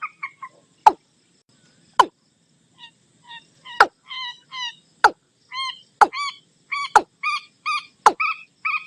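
Calls of watercock and common moorhen mixed together: sharp, sweeping notes about once a second, and in between them a run of short, clucking notes that quickens and grows louder from about three seconds in.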